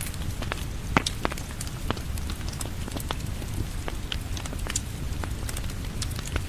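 Rain falling on a porch blended with a crackling wood fire: a steady low rush of rain with scattered sharp pops and crackles, one louder pop about a second in.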